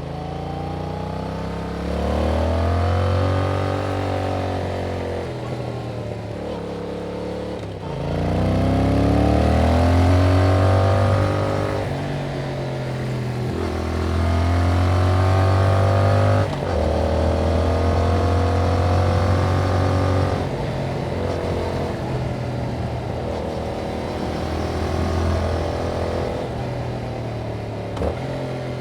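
Yamaha MT-07's parallel-twin engine through its stock exhaust under way. The revs climb under throttle and fall back several times, with sudden drops between pulls.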